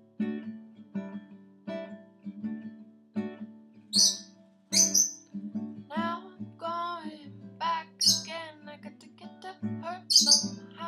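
Acoustic guitar strumming steadily between verses, with a pet lovebird chirping loudly over it from about four seconds in: short shrill chirps and a few gliding, wavering calls.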